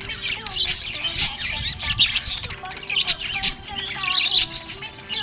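Budgerigars chirping and warbling together, happy flock chatter: a continuous run of wavering chirps with many short, sharp notes mixed in.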